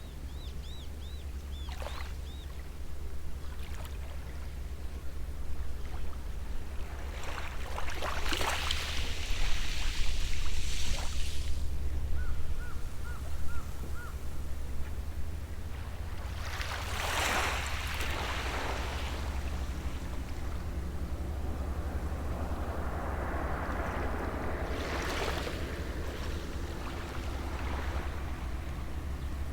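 Gentle sea waves washing onto the shore, three swells rising and falling about eight seconds apart, over a steady low rumble. A bird calls with a quick run of short repeated notes at the start and again about halfway through.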